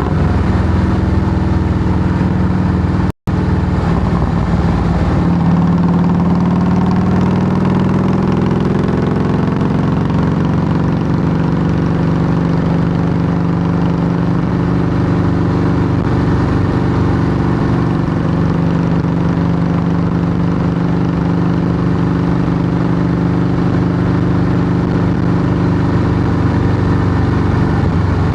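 2008 Harley-Davidson Softail Heritage Classic's Twin Cam V-twin running steadily through Samson fishtail true dual exhaust pipes, its pitch holding fairly even. The sound cuts out for an instant about three seconds in.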